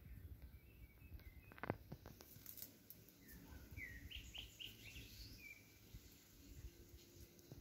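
Near silence, with a faint small bird chirping a quick run of four or five short notes about halfway through. A few soft clicks come in the first two seconds over a low rumble.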